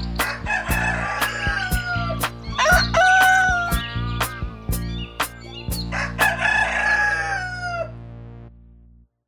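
A rooster crowing three times, each a long call that falls in pitch at the end, over background music with a steady beat. Everything cuts off suddenly near the end.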